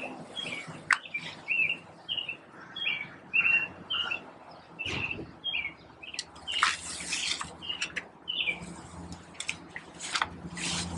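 A small bird chirping over and over, a short note about twice a second, falling quiet after about five seconds and chirping a few more times later. Brief bursts of hiss from a hand-pump garden sprayer's wand come in the second half.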